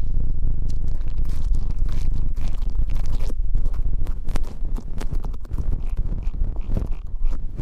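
Close-miked ASMR ear-cleaning sounds: scraping and scratching with a dense run of small clicks over a steady low rumble.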